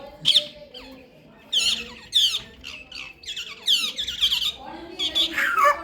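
Parrots squawking: a run of short, harsh, high-pitched calls, several in a row, the last one sliding down in pitch.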